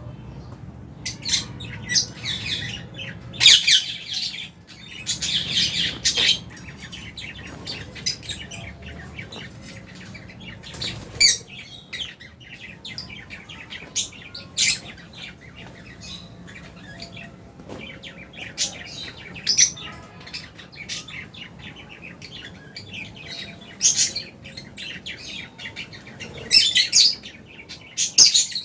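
A flock of lovebirds chirping continuously, with short sharp high calls and several louder bursts of squawking chatter spread through.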